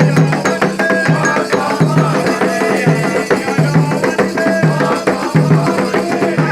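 Candomblé percussion: atabaque hand drums, led by the rum, playing a steady, dense rhythm for Xangô, with a deep drum tone about once a second, short high ringing notes and rattle shakes over it.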